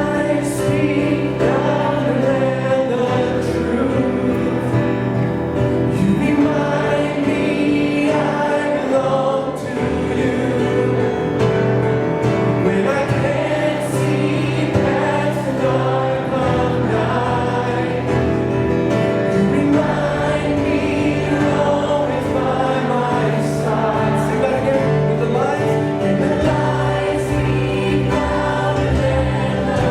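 A congregation singing a worship song together with the leader, over instrumental accompaniment.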